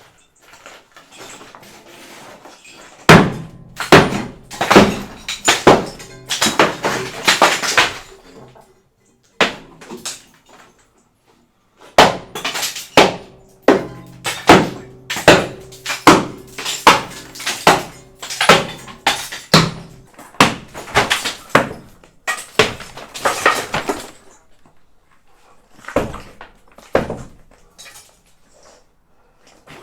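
Repeated hammer blows breaking up a brick wall, with brick and mortar cracking and falling, in two long bouts with a pause between and a few last knocks near the end.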